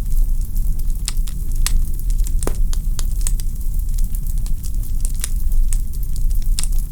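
Wood fire crackling in a fireplace: irregular sharp pops and snaps, several a second, over a steady low rumble of the flames, with one stronger pop about two and a half seconds in.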